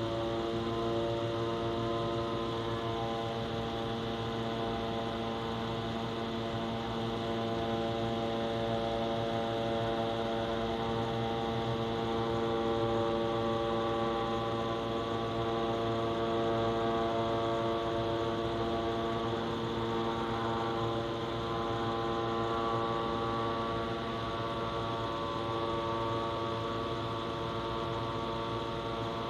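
A steady droning hum from the sky, made of many even overtones held at one pitch without a break, of the kind reported as the "strange sky noises"; no aircraft is seen as its source.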